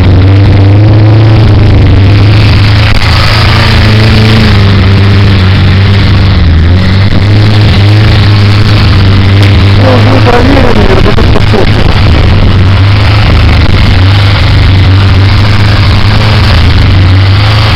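Honda CBR1000F motorcycle's inline-four engine running loudly at a mostly steady idle.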